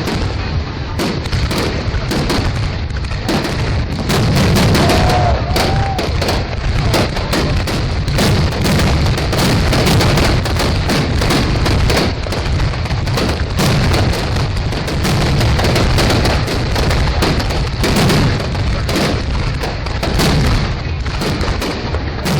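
Fireworks going off in a dense, continuous barrage: rapid booms and sharp bangs several a second over a steady rumble and crackle.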